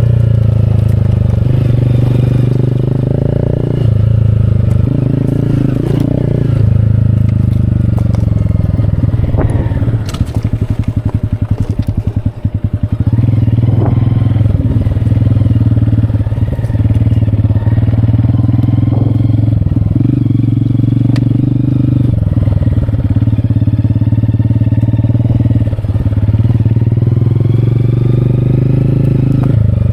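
Motorcycle engine running steadily while riding. About ten seconds in the revs drop for a few seconds, so the separate firing pulses can be heard, then the engine picks back up.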